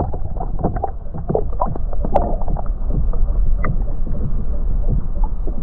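Water splashes and small knocks against a kayak over the first few seconds as a largemouth bass is let back into the lake, under a steady low rumble of wind on the microphone.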